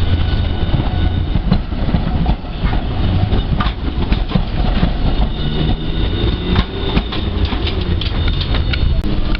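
A streetcar running on its track, with a steady rumble and wheels clicking over rail joints, and a high whine or squeal that comes and goes.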